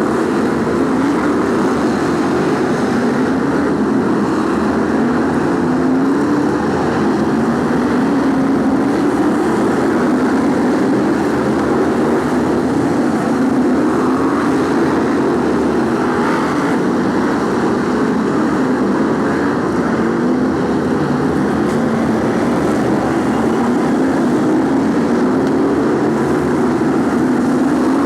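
BriSCA F1 stock cars' V8 engines running hard during a race, several at once. The engine note rises and falls every couple of seconds.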